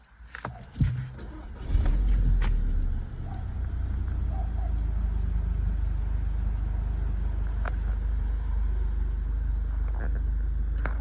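Volkswagen Golf GTI's 2.0-litre turbocharged four-cylinder engine starting up: a few clicks, then the engine catches about two seconds in with a brief flare of revs and settles into a steady idle.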